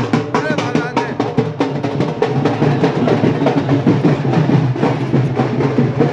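Fast, steady drumming with music, dense strikes following one another without a break.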